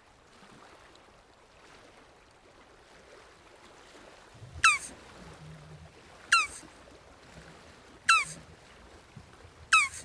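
An animal calling four times, each call a short, sharp note that drops quickly in pitch, about one and a half seconds apart, over a faint background hiss.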